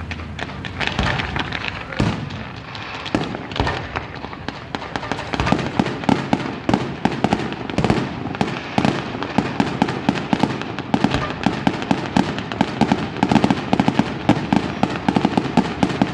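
Fireworks going off: a few separate bangs in the first few seconds, then from about five seconds in a rapid, dense run of sharp crackling pops, several each second.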